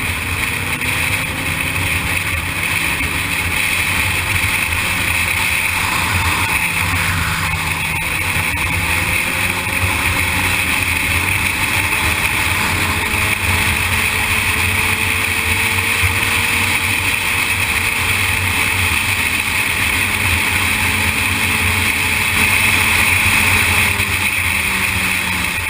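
Sportbike engine running at road speed, its pitch slowly rising and falling, under a steady rushing noise.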